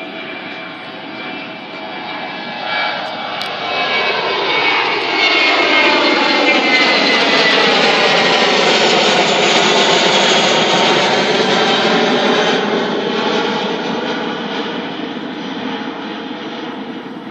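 Jet airliner departing and passing overhead: the engine noise builds to a loud peak about halfway through, then fades away, with a sweeping, phasing whoosh as it goes by.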